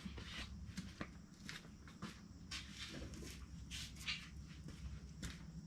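Faint rustling with scattered light clicks and taps: mower blades and hand tools being handled ahead of a blade change.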